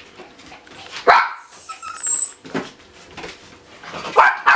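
Papillon puppy barking in short, high yaps, once about a second in and again in a quick run near the end, with a brief high squeak between them.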